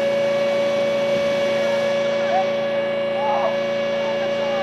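A steady machine hum with a constant high tone that does not change in pitch, and faint distant voices about three seconds in.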